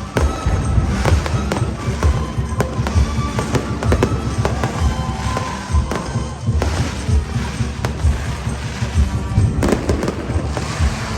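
Fireworks bursting in rapid, irregular succession, many sharp bangs over a continuous low rumble, with music playing alongside.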